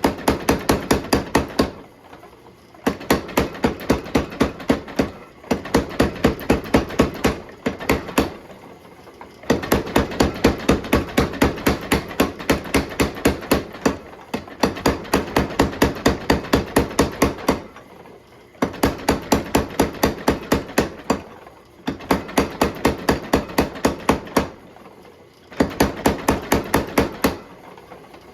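Steel being forged with a hammer: runs of rapid, regular blows, about five a second, broken by short pauses every few seconds.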